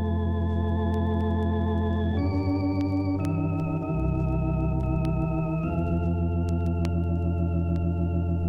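Organ music: slow, sustained chords that move to new chords a few times, with faint scattered clicks.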